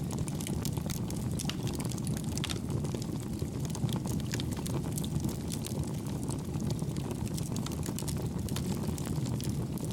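Campfire burning: a steady low rumble of flames with many small, soft crackles scattered throughout.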